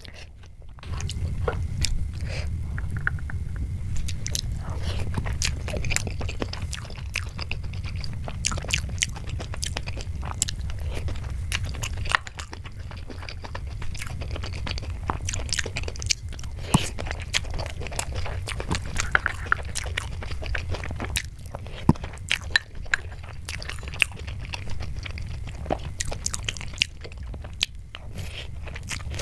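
Close-miked chewing and mouth sounds of a person eating spoonfuls of kheer (rice pudding): many irregular small clicks and smacks over a steady low rumble that sets in about a second in.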